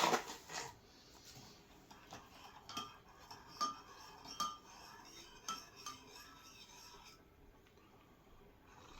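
A metal spoon stirring coffee in a mug, knocking against the sides in light, irregular ringing clinks that stop a couple of seconds before the end.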